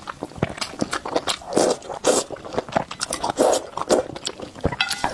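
Close-miked eating of potato noodles in spicy soup: chewing, with wet mouth smacks and clicks in quick, irregular bursts.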